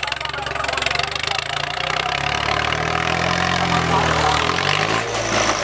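Swaraj 855 tractor's three-cylinder diesel engine running, its pitch rising from about two seconds in as it is revved up, with voices in the background.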